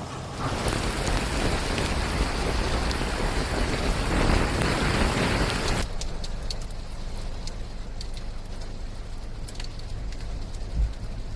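Heavy rain falling: a dense, loud hiss that cuts off suddenly about halfway through. It gives way to lighter rain with scattered drops ticking.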